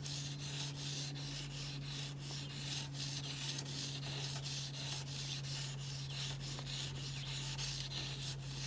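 Steel gouge blade being honed by hand on sandpaper, scraped back and forth in steady strokes, about three a second. The edge is sharp enough now to start cutting into the paper.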